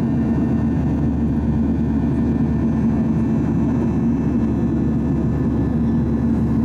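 Steady engine and airflow noise inside the cabin of a Boeing 737-800 climbing after takeoff, with its CFM56 turbofans producing a constant low roar and a steady hum.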